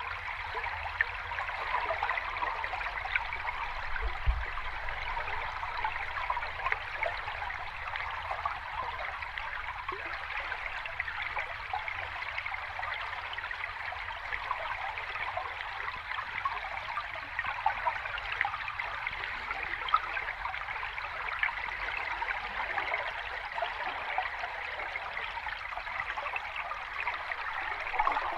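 Seawater at the shoreline: a steady rushing and fizzing, with small crackling pops scattered through it and no separate wave surges.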